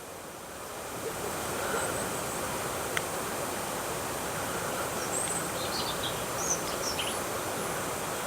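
Steady outdoor background noise with a few short, high bird chirps in the second half and a single click about three seconds in.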